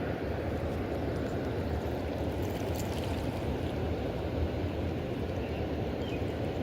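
Steady low rushing of moving river water, an even sound that does not rise or fall.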